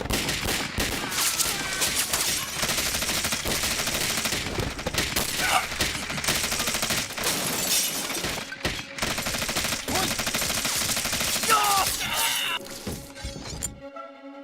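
Sustained rapid gunfire: many shots overlapping in a dense barrage, with cries and shouts breaking through now and then. The firing dies away near the end.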